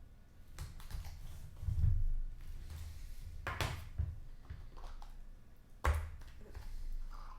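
Trading cards and packs being handled on a table: rustling, sliding and light tapping, with a few dull knocks, the loudest about two seconds in and near six seconds.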